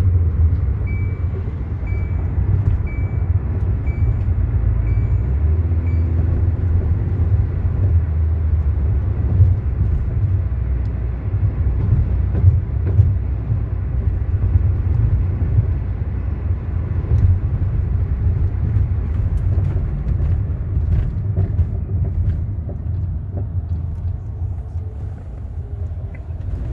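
Kia Soul cabin on a test drive: steady low road and drivetrain rumble with no brake grinding, so the brakes are now quiet. A run of short, evenly spaced high beeps sounds during the first six seconds or so.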